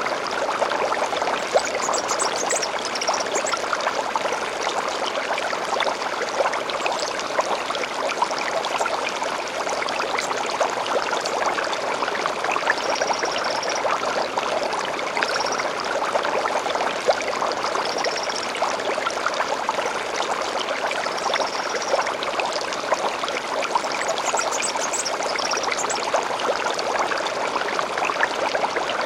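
A gentle stream babbling and trickling steadily, with songbirds giving short high chirps and brief trills every few seconds over the water.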